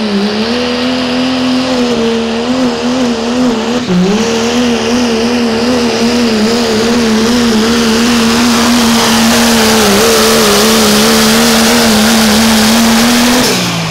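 A 1997 Dodge Ram pickup's engine is held at high revs under full throttle, pulling a weight-transfer sled. Its pitch wavers a little and dips briefly about four seconds in. Just before the end the engine backs off and the revs fall sharply.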